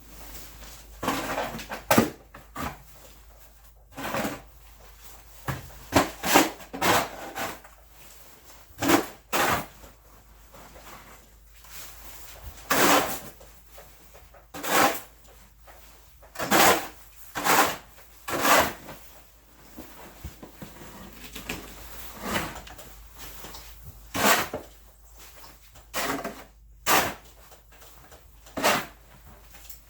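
Snow shovel scraping along a driveway, in a long run of short, irregular strokes about one to two seconds apart.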